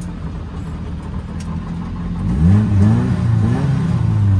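Nissan 240SX's CA18DET turbocharged 1.8-litre four-cylinder engine pulling away. It runs low and uneven for about two seconds, then revs up sharply and rises and falls as the throttle is worked.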